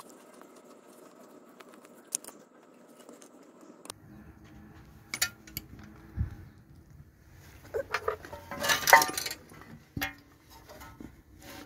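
Metal tools and small metal parts clinking and knocking during hand work on an engine, with a louder burst of metallic clatter a little before the end.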